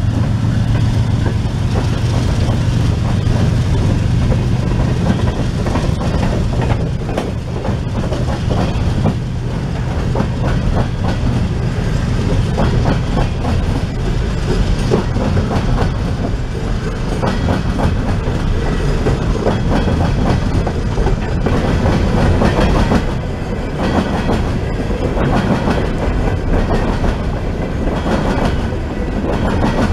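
Freight train rolling past, its cars clicking steadily over rail joints. A low steady drone at the start fades within the first couple of seconds.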